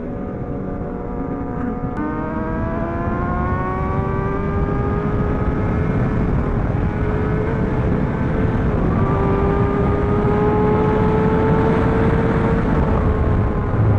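Superbike engine pulling hard at highway speed, its pitch dropping about two seconds in and then climbing slowly as it accelerates through the gears, with heavy wind rumble on the camera's microphone.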